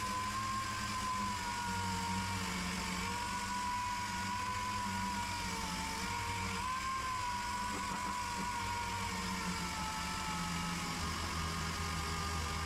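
Handheld power tool running steadily on car body panel, its whine wavering and dipping slightly as it is pressed into the work while cleaning back the rear wheel arch.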